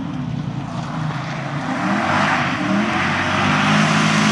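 Ford EA Falcon rally car's V8 engine running hard on a gravel stage, its note stepping up and down several times, with a rushing noise of tyres and stones growing louder over the second half.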